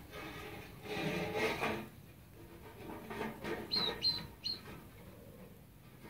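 Rustling and scraping, then three short, high bird chirps in quick succession a little past the middle.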